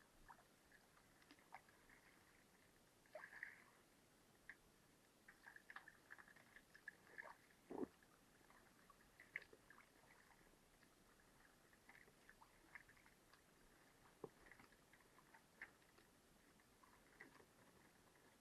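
Near silence, broken by scattered faint clicks and taps, with one louder knock about eight seconds in.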